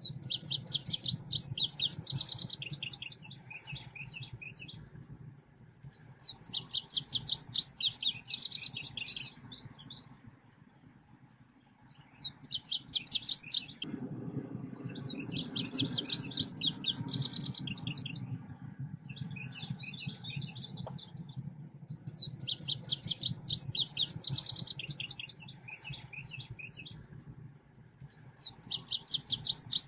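Recorded song of the bird called selendang biru in Indonesia, played as a lure call: bursts of rapid, high chirping notes about two to three seconds long, repeating every six seconds or so over a steady low hum.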